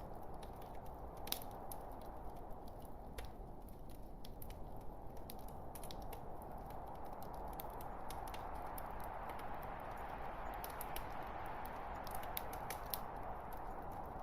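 Wood fire burning in a fireplace: a steady low rumbling hiss with irregular sharp crackles and pops from the burning logs.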